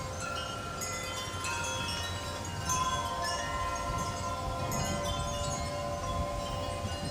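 Wind chimes ringing in gusty storm wind, many tones struck at random and ringing on over each other, with wind rumbling on the microphone underneath.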